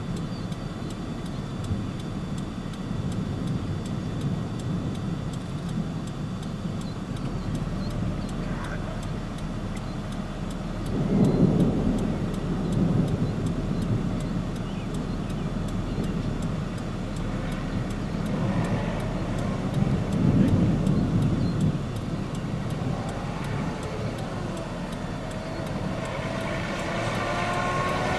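Car driving, with a steady low rumble of engine and road noise that swells twice and an engine pitch rising near the end as it speeds up.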